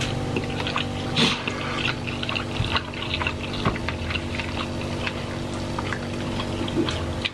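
Close-miked eating sounds: wet chewing, lip-smacking and small mouth clicks from people eating roast chicken and noodles, irregular and frequent, over a steady low hum.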